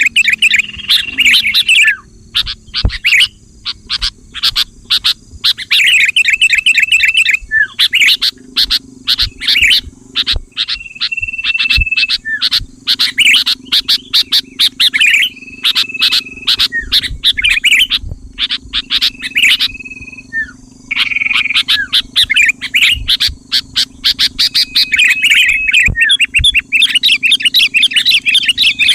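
Sooty-headed bulbuls (kutilang) singing: repeated bubbly, chattering phrases broken by short held whistled notes, phrase after phrase with brief gaps. A steady low hum runs underneath.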